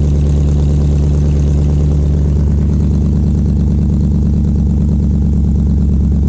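BMW 735i's N62 V8 idling steadily and loudly, its exhaust open at the catalytic converters with the pipes behind them removed.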